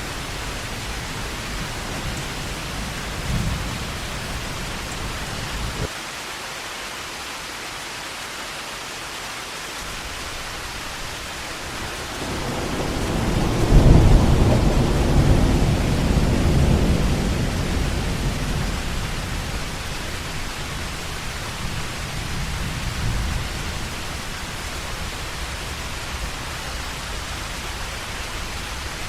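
Heavy rain falling steadily, with a roll of thunder that swells about twelve seconds in, peaks soon after and rumbles away slowly over several seconds.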